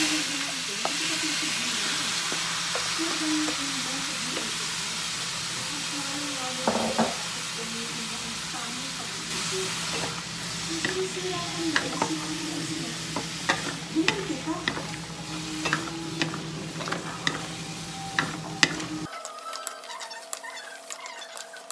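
Green papaya chunks sautéing in hot oil in a metal wok, a steady sizzle with a spatula scraping and stirring the pieces. The sizzle slowly thins while the scrapes grow more frequent, and about 19 seconds in the frying sound cuts off abruptly.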